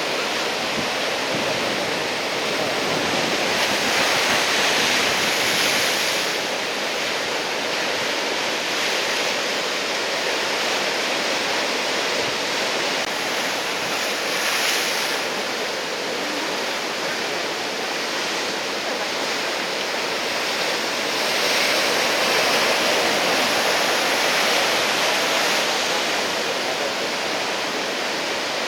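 Big typhoon-swell surf breaking and washing in: a continuous rush of white water that swells louder a few seconds in and again past the twenty-second mark.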